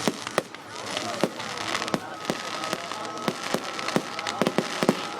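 Fireworks going off: a fast, irregular run of sharp bangs and crackling pops. From about a second and a half in, a steady high tone runs under the bangs.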